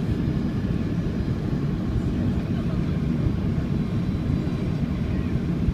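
Steady low rumble of an Airbus A330-200's jet engines and airflow, heard inside the passenger cabin.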